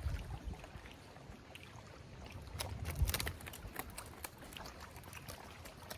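Scattered small clicks and knocks with water dripping around a kayak as a small mangrove snapper is handled and measured, with a louder cluster of knocks and a dull thump about halfway.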